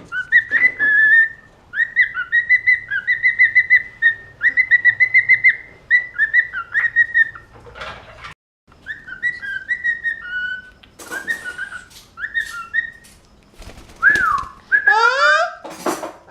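Pet parrot whistling: fast runs of short, repeated whistled notes, then scattered short chirps and sliding notes.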